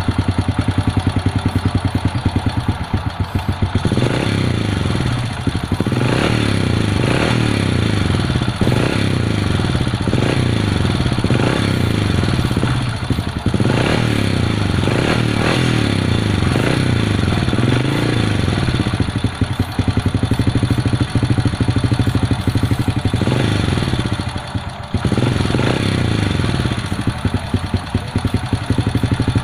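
Honda Supra underbone motorcycle's single-cylinder four-stroke engine running, idling for the first few seconds, then revved up and down over and over with the throttle, with a brief dip about three quarters of the way through. The engine needs its carburettor adjusted.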